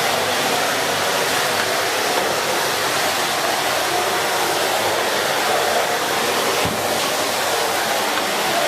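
Miele C2 Compact (S6) cylinder vacuum cleaner with a 2000 W motor running steadily while its floorhead is pushed over the floor. There is one light knock about two-thirds of the way through.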